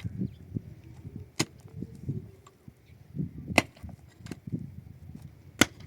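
Three sharp cracks about two seconds apart, over softer low thuds.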